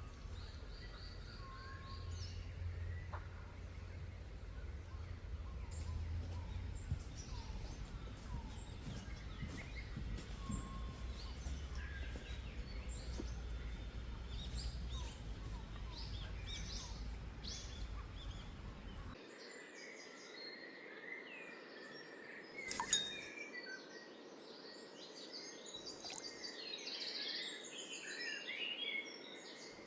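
Outdoor forest ambience with many small birds chirping and calling, over a low wind-like rumble that cuts off abruptly about two-thirds of the way through. A single sharp knock or clink stands out a little after that.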